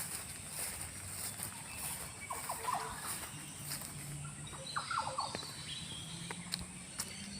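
Short bird chirps in two brief clusters, about two and a half and five seconds in, over steady outdoor background noise.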